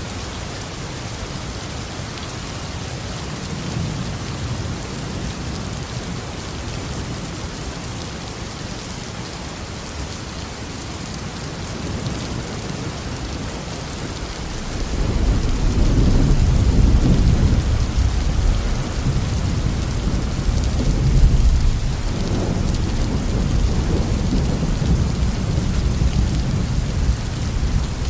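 Heavy rain falling steadily on a roof, with a deep rolling rumble of thunder that swells in about halfway through and keeps rolling to the end.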